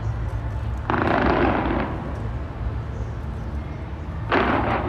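Fireworks display going off: a continuous low rumble of booms, with two louder bursts of noise about a second in and near the end.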